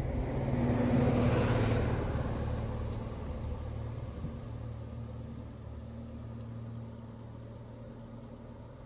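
A car passing by, loudest about a second in, then fading away slowly with its low engine hum.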